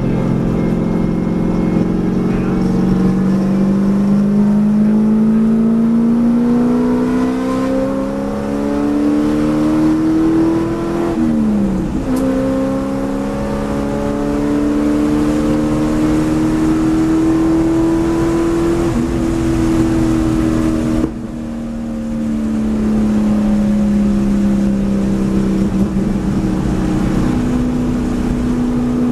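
Track car's engine heard from inside the cabin under hard acceleration, its note climbing steadily. It drops sharply at an upshift about a third of the way through and climbs again. About two-thirds through the engine suddenly goes quieter as the driver lifts off, and the note falls as the car slows for a corner, then holds steady.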